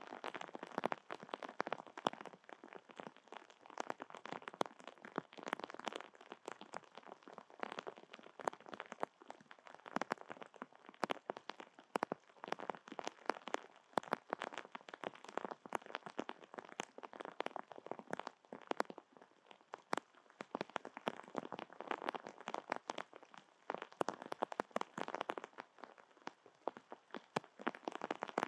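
Steady rain falling, with a dense irregular patter of drops ticking on nearby surfaces.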